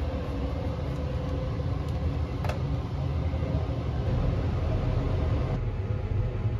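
Sunrise Izumo sleeper train (285 series electric multiple unit) running, heard from inside the car as a steady low rumble. One sharp click comes midway through.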